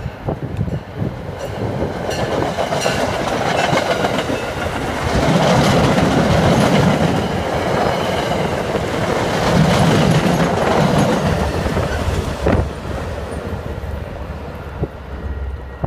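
MBTA commuter train passing close at speed, bilevel coaches rushing by with wheels clicking over the rail joints. It grows louder as it arrives, is loudest for several seconds mid-way, and eases off near the end as the diesel locomotive pushing at the rear goes by.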